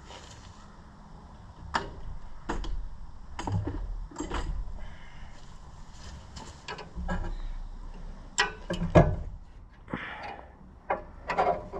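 Irregular metal clinks and knocks of a wrench at work, loosening the temperature gauge fitting on a tractor engine, the loudest knock about nine seconds in.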